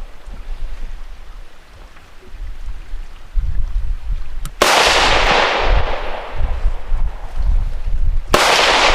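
Two rifle shots about four seconds apart, each a sharp crack with a long echoing tail, over wind rumble on the microphone. The Tannerite target does not go off, which the shooter puts down to not enough gun.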